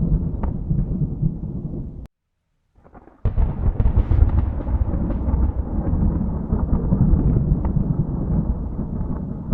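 Thunder rumbling, cutting off abruptly about two seconds in; after about a second of near silence a sharp crack sets off a new peal that rolls on.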